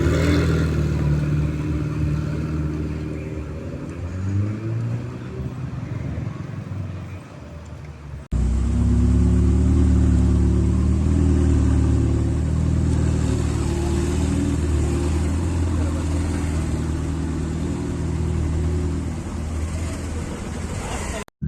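Supercar engines in two clips joined by a cut: first an engine with the revs rising and falling, then, after a sudden cut about eight seconds in, a louder, deep, steady engine note.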